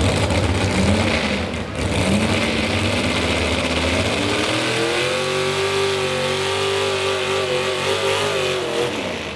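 Modified 4x4 pulling truck's engine revving: two short rising blips, then it climbs to high revs and holds there for several seconds before letting off near the end.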